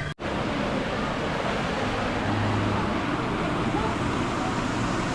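Steady rushing of running water, with a momentary cut-out just after the start.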